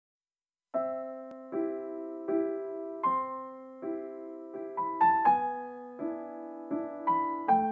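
Background piano music: after a brief silence, a slow piece starts under a second in, with single notes and chords struck about every three-quarters of a second.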